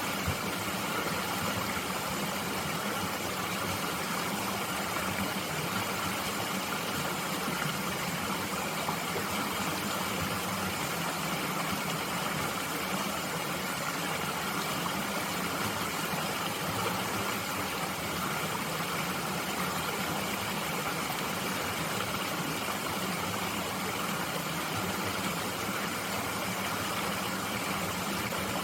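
Steady, unbroken rush of a mountain stream flowing over rocks.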